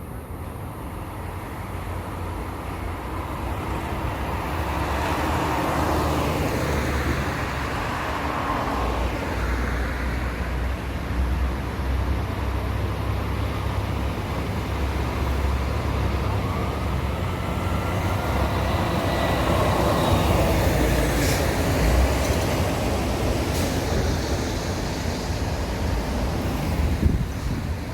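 Road traffic: vehicles passing one after another, each rushing sound swelling and fading, over a steady low rumble.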